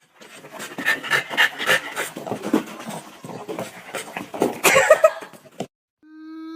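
A dog panting quickly and noisily in a run of rapid breaths, loudest just before it stops; a steady musical tone comes in near the end.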